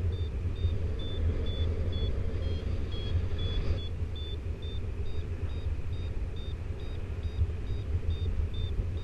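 Paragliding variometer beeping in short, evenly spaced high tones, about two to three a second, which signals the glider climbing in lift. Under it is a steady low rumble of wind on the microphone.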